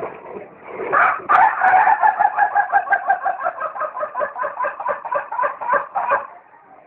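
An animal, a bird by its sound, calling in a long fast run of short pitched notes, about five a second for some five seconds, that sounds like laughter or singing.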